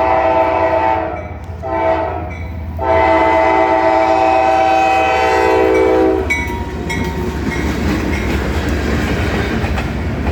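Freight locomotive's multi-chime air horn ending its crossing signal: the tail of one blast, a short blast, then a long blast held about three seconds that cuts off about six seconds in. After that the train rolls past, its wheels clattering over the rails.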